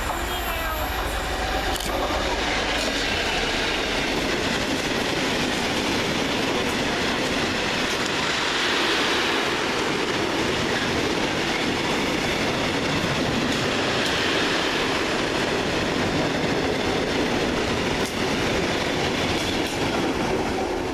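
Freight train hauled by a Class 66 diesel locomotive passing, its wagons rolling by with a steady wheel-on-rail noise.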